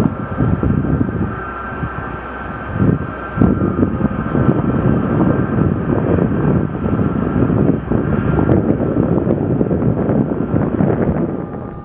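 Boeing C-17 Globemaster III's four turbofan jet engines running: a loud steady roar with a high whine on top, which fades out about eight and a half seconds in.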